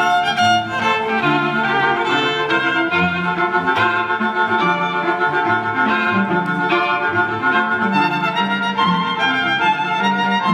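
Violin playing a melody over lower bowed string notes, a small string ensemble.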